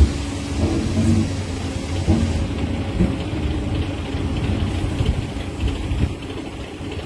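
DAF XF 480 truck's MX-13 diesel engine idling with a steady low rumble.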